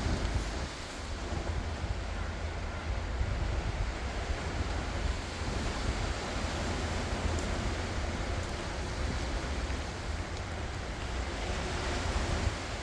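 Ocean surf: waves breaking and washing in steadily, with a low rumble of wind on the microphone.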